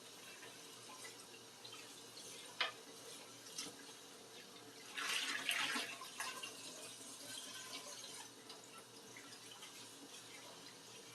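Tap water running into a kitchen sink during dishwashing, with a sharp knock about two and a half seconds in and a louder burst of noise around five seconds in.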